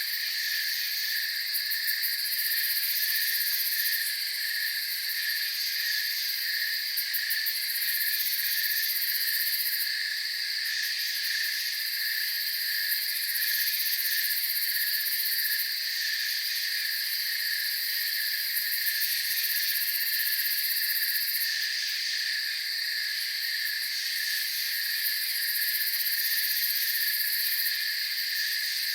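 Night-time chorus of crickets and other insects: a steady, evenly pulsing chirp under continuous higher trilling, with the highest trills starting and stopping every few seconds.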